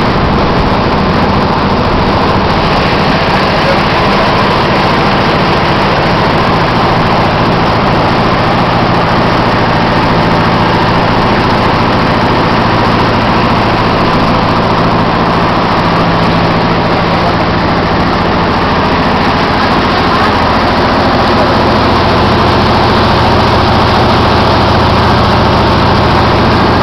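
Boat engine running steadily, a loud constant hum with a few steady low tones, heard close up on board.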